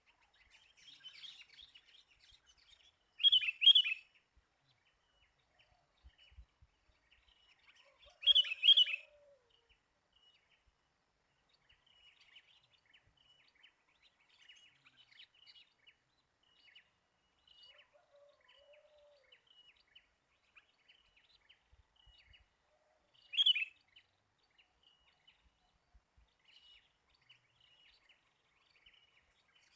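Sooty-headed bulbuls (kutilang) calling: a steady scatter of faint, short chirps, broken three times by a loud burst of close calling.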